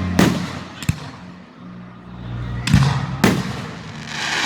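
Aerial fireworks going off: a sharp boom just after the start, a smaller pop about a second in, and two booms half a second apart near the middle, followed by a crackling shimmer near the end. A steady low hum runs underneath.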